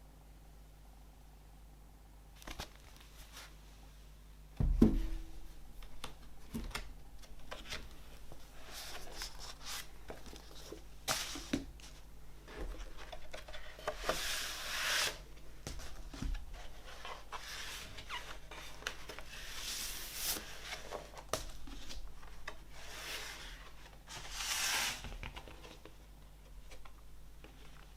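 Hands handling a vinyl LP package: a single thump about five seconds in, then light clicks and tapping with several longer rustling, sliding swells of paper or plastic being worked.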